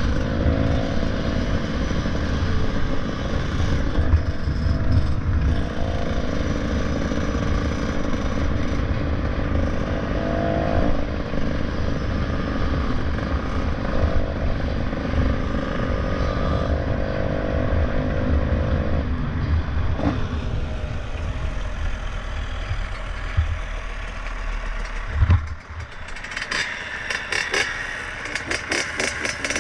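Motorcycle riding along, its engine pitch rising and falling with the throttle over a heavy low wind rumble. Near the end there is a single thump, then a fast rattling.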